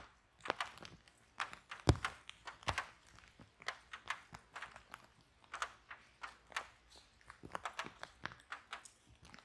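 Wood fire burning in a fireplace, crackling with irregular snaps and pops, several a second. The loudest pop comes about two seconds in.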